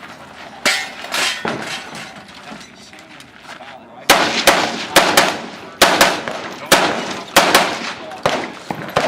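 Rifle shots in a timed competition stage: one sharp report under a second in, then a rapid string of about ten shots, roughly half a second apart, from about four seconds in.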